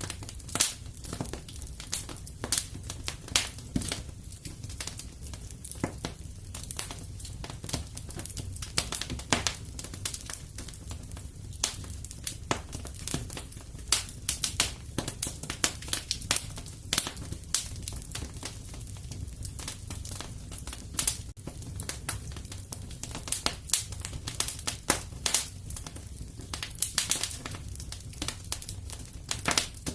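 Wood fire in a fireplace crackling: irregular sharp pops and snaps, often several a second, over a low steady rumble.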